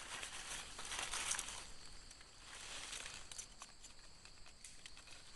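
Dry leaf litter rustling and crackling in a few bursts, as someone searches the forest floor for mushrooms, with a faint steady high hum throughout.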